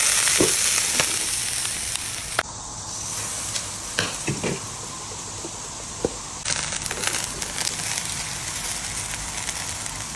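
Popcorn kernels sizzling in hot oil in a pan, with a handful of sharp pops as kernels burst. The sizzle drops abruptly about two and a half seconds in and comes back louder shortly before seven seconds.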